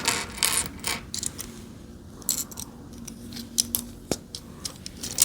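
Small plastic LEGO pieces clicking and rattling as they are handled and snapped together, an irregular run of sharp clicks.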